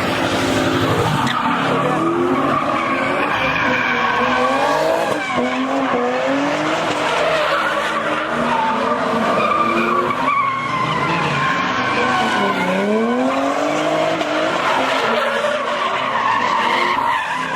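Cars drifting and doing donuts: tyres squealing without a break over engines revving up and down again and again.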